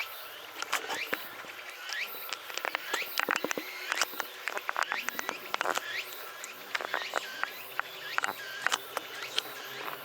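Many quick chirps from small birds in rapid succession, over a steady high insect hiss.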